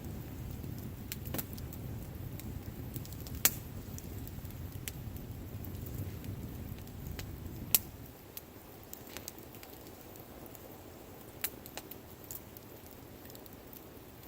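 Wood fire crackling, with scattered sharp pops and two much louder snaps, about three and a half seconds in and just before eight seconds in. A low rumble underneath fades out at about the eight-second mark.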